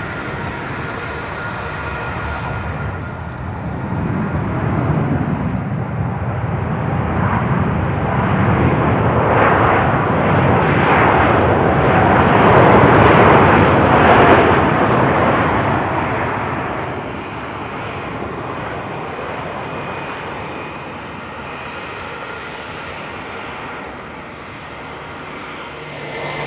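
Jet airliner passing by, its engine noise building to a loud peak about halfway through and then fading away.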